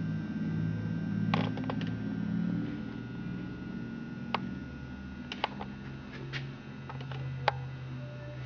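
A few short, sharp clicks and light taps, scattered irregularly, over a steady low hum in a small room.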